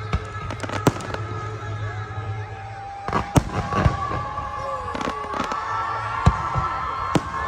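Fireworks bursting in a series of sharp bangs, the loudest a little over three seconds in, near four seconds and about six seconds in.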